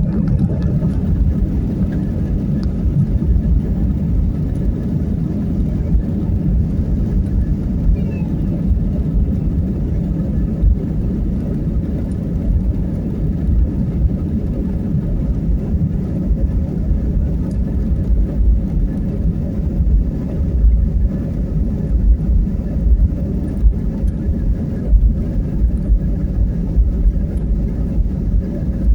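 Airplane taking off: a loud, steady low rumble of engine and air noise with faint steady tones above it, holding even throughout.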